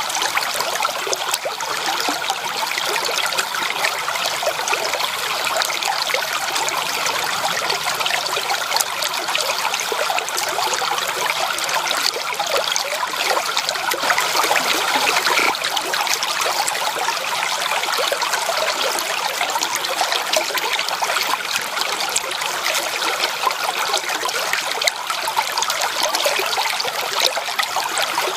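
Running water of a stream, babbling steadily with many small splashes and trickles.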